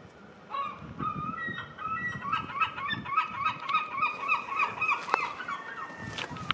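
Birds calling: a long run of short, repeated calls, about three a second, starting about half a second in and fading near the end.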